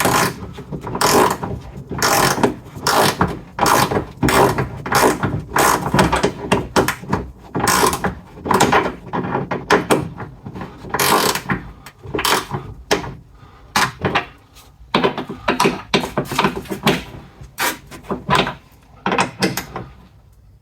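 Ratchet wrench clicking in short runs, one swing after another at about one or two a second, as the wiper motor's mounting bolts are run in and tightened.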